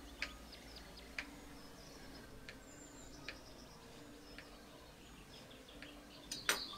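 Birds chirping faintly with short high calls, and a few sharp clicks or taps scattered through, the loudest cluster of taps near the end.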